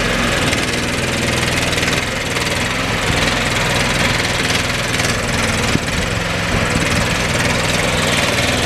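Engine of a remote-controlled shed buggy running steadily as it moves a shed, with one brief knock about six seconds in.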